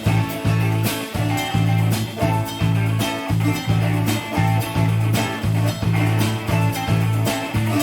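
Live band playing: electric bass and drum kit keeping a steady beat under plucked guitar and viola caipira.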